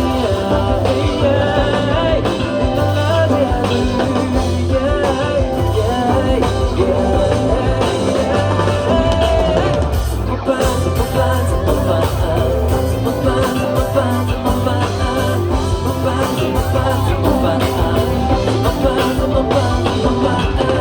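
Live pop-rock band music through a PA: drums and bass under a wavering melodic lead, in a stretch of a song without sung words.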